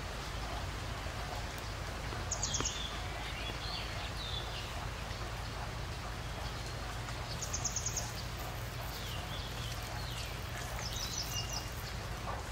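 Steady outdoor background noise with a bird's high chirping calls three times, each a quick run of notes with a falling tail.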